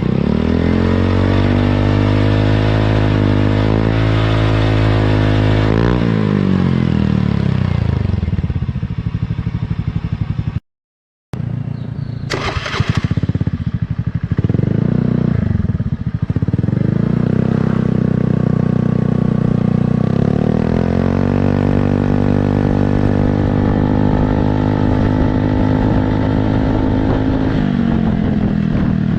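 Automatic scooter engine running through an aftermarket quiet-type copy-CMS exhaust, idling and being revved up and let back down several times. The sound cuts out completely for about half a second a little over a third of the way in, then comes back with a sharp rev.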